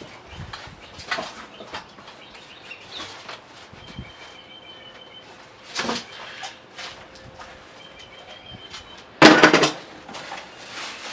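Generator's cardboard box and packing being handled during an unboxing: scattered rustles and knocks, with one loud scrape or tear about nine seconds in.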